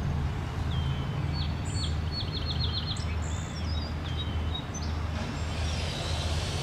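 Outdoor background noise: a steady low rumble, with a small bird chirping a quick run of short high notes about one to three seconds in and a few fainter chirps after.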